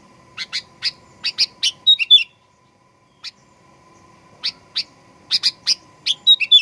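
Sooty-headed bulbul (kutilang) calling: two runs of short, sharp chirps that come faster and end each time in a brief warbled flourish, with a pause between. A faint steady hum lies underneath.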